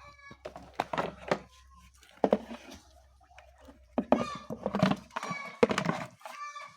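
Chickens clucking, broken by a series of loud knocks and thuds around one second in and again from about four to six seconds in.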